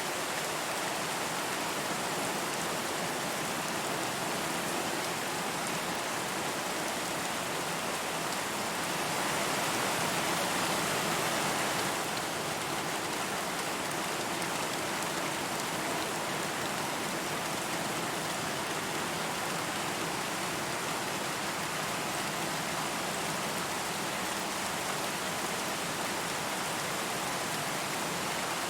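Steady rain falling, an even hiss of many drops, swelling slightly louder for a few seconds near the middle.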